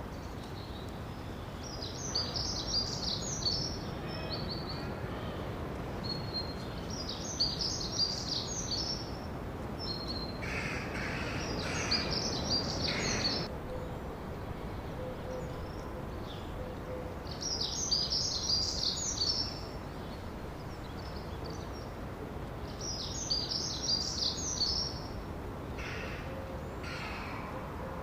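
Birds singing in short, high, warbling phrases repeated about every five seconds, over a steady background hiss. A lower, harsher call comes in twice, around the middle and near the end.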